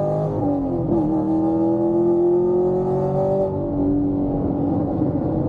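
Chevrolet Camaro SS 1LE's 6.2-litre LT1 V8 exhaust under hard acceleration in a second-gear pull. The revs dip briefly about half a second in, climb again, then drop to a lower, steadier note a little after three and a half seconds.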